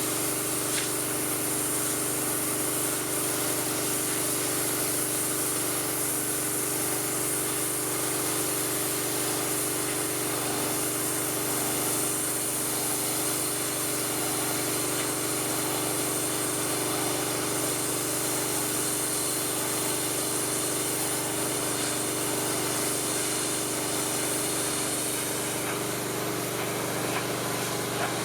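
Pressure washer's engine running steadily, with the loud hiss of its high-pressure water spray.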